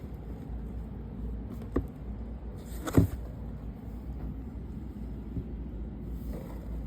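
A light click and then, about a second later, a sharper, louder knock, over a steady low hum.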